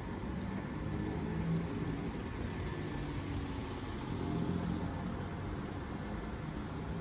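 Steady city street traffic: motor vehicles running on the road alongside.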